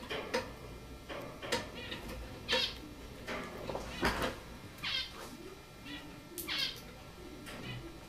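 Cockatiel giving a string of short, high chirping calls, about one a second.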